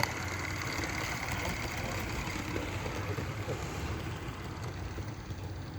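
Live steam model locomotive running, a steady mechanical hiss and hum with no clear beat.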